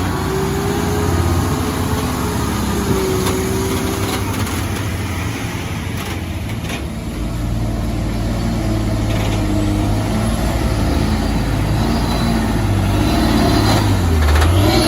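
Heavy diesel truck engine running under load, a steady low drone that grows louder and deeper about seven seconds in, with the engine note shifting up and down near the end.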